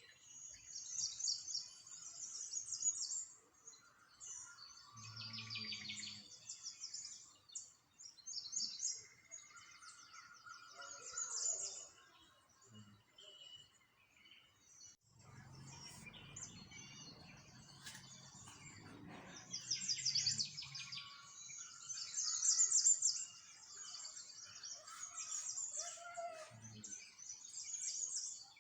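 Small songbirds chirping and singing in quick, high trills, phrase after phrase overlapping, with a low rumble joining in for several seconds around the middle.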